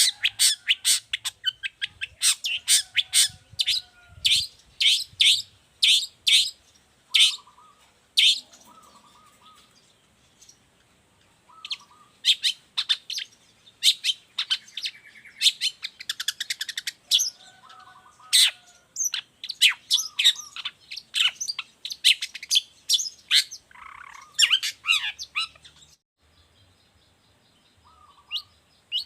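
Long-tailed shrike singing vigorously: long runs of rapid, sharp chirps with a few lower whistled notes mixed in, pausing briefly about ten seconds in and again near the end.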